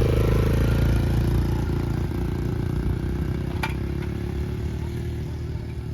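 Motocross dirt bike engine running, gradually getting quieter over a few seconds, with a single sharp click about three and a half seconds in.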